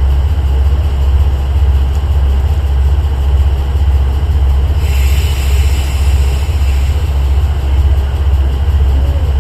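Kanto Railway KiHa 2100 series diesel railcar idling at a standstill: a steady low engine rumble with an even throb. About five seconds in, a hiss starts suddenly and fades away over the next couple of seconds.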